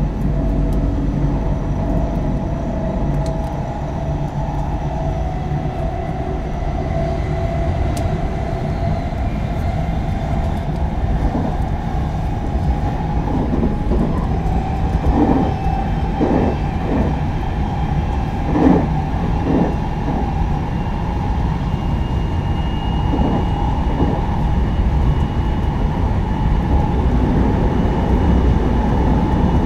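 Onboard running sound of a JR West 223 series 0 electric train with Toshiba GTO inverter drive: a steady wheel-on-rail rumble with a thin whine from the traction equipment. A run of rail-joint clacks comes about halfway through.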